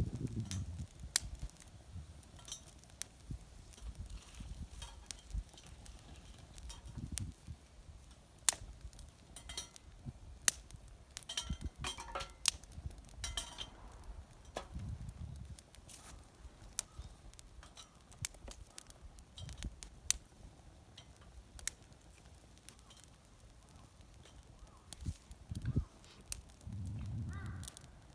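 Wood fire in a small fire pit crackling, with irregular sharp pops and clicks scattered through. Low wind rumble on the microphone comes and goes, strongest near the end.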